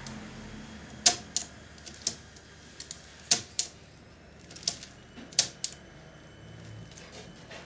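Small hard parts of a cassette recorder's tape mechanism being handled: about a dozen irregular sharp clicks and taps over the first six seconds.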